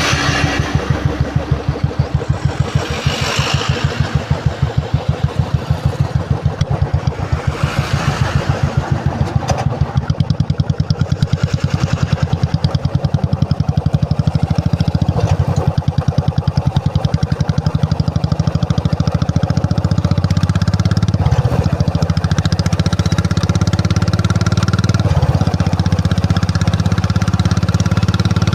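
Royal Enfield Classic 350's single-cylinder engine running with an even exhaust beat of about six pulses a second at idle. About twenty seconds in it picks up to a faster, smoother run.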